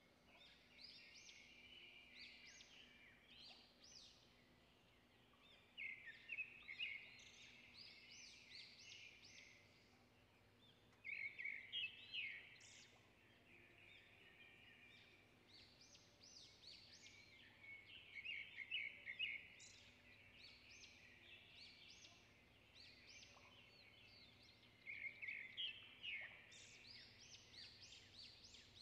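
Faint songbird song in about five bursts of rapid, high notes a few seconds apart, over a low steady background hum.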